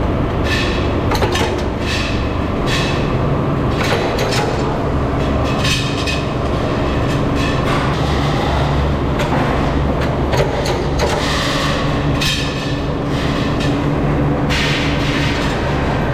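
Metalworking machinery running in a wheel-rim factory: a steady low hum under a loud, high rushing noise that surges and fades every second or two.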